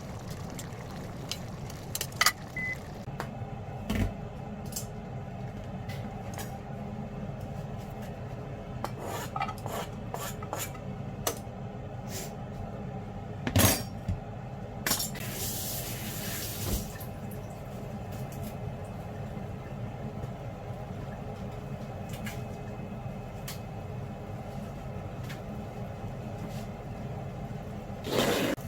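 Kitchen cooking sounds: utensils and cookware clinking and knocking now and then over a steady low hum. There is a brief hissing rush about halfway through.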